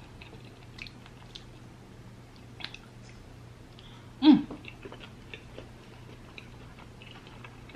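A person chewing a mouthful of potato, lobster and crab with faint, scattered wet mouth clicks. About four seconds in there is one short vocal sound.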